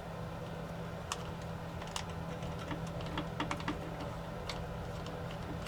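Light, scattered clicks and ticks of small precision tools, a Torx screwdriver and tweezers, against a DJI Mini 4 Pro drone's plastic shell and tiny screws. The clicks come a few at a time and cluster in the middle, over a steady low hum.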